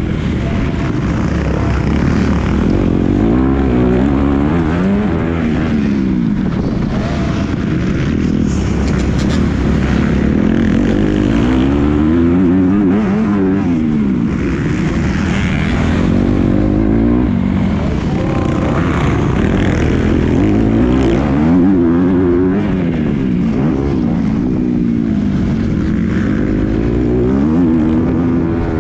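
Motocross bike engine revving hard, its pitch climbing and dropping again and again as the rider accelerates, shifts and backs off around the track.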